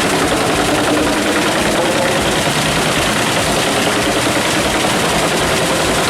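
Heavy machine's engine running steadily at an even pitch, with no change in load.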